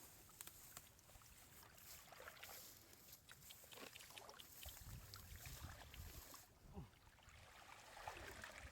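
Faint water sloshing and trickling with a few small knocks, close to near silence.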